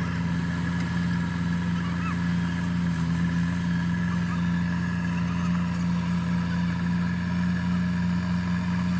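Tractor engine running at a steady speed, an even engine drone with no change in pitch.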